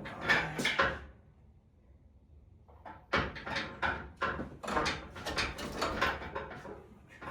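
Repeated metal clunks and knocks as the engine and transmission are shifted and worked down into the engine bay: a cluster in the first second, a quieter gap, then a longer run of knocks from about three seconds in.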